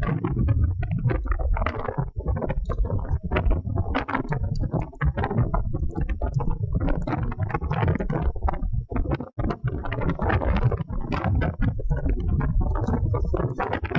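Wind buffeting the microphone: a loud, gusty rumble that flutters unevenly, with a brief dip a little past nine seconds in.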